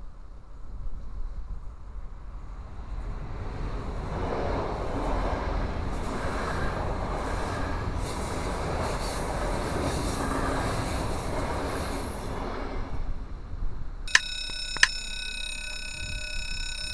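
Double-deck TER electric train passing over a level crossing, its rumble and wheel noise building from about four seconds in and dying away a few seconds later. Near the end, two sharp clicks, then a level-crossing warning bell starts ringing steadily.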